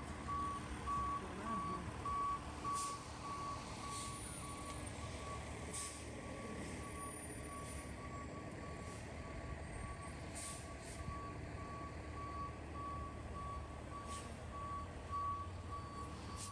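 A vehicle's reversing alarm beeping steadily, a single-pitched beep repeating about one and a half times a second. A low engine rumble runs beneath it.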